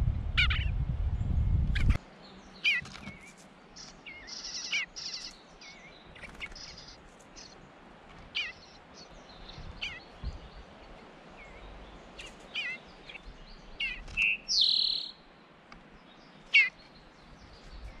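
Small songbirds chirping: scattered short calls, many of them quick downward-sliding notes, with a longer, louder call about fourteen seconds in. A low rumble covers the first two seconds.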